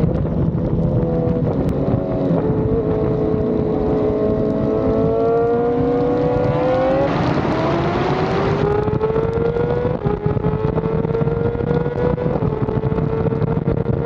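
BMW S1000RR inline-four engine running hard at high revs, its pitch climbing slowly. About seven seconds in, a loud rush of noise comes in for a second or two as the pitch drops, then the pitch climbs steadily again.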